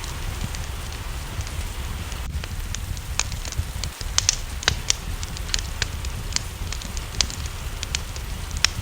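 Wood fire in a fireplace crackling, with sharp irregular pops a few times a second over a steady low rumble, and rain falling in the background.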